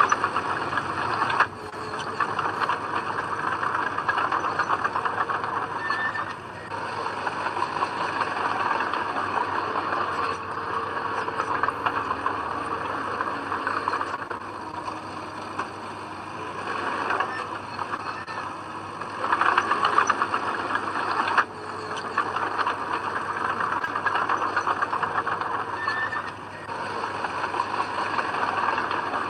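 Heavy earthmoving machinery working: a diesel engine running steadily, its level changing suddenly several times.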